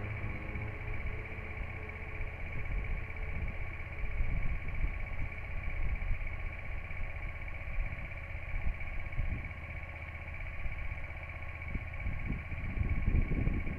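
Honda XL125V Varadero's 125 cc V-twin ticking over in first gear, turning the rear wheel and freshly oiled drive chain with a steady whir. A louder engine note drops away right at the start, and irregular low rumbles run underneath.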